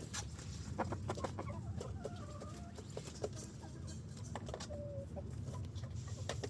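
Chickens clucking with short scattered calls while feeding, among many short sharp clicks and taps, over a steady low rumble.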